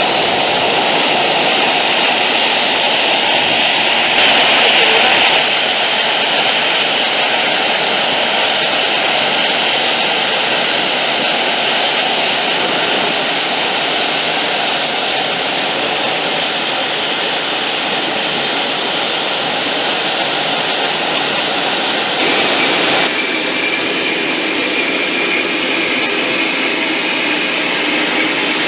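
Boeing 737-300's CFM56-3 turbofan engines running steadily with a high fan whine as the jet taxis, briefly louder about four seconds in and again near the end.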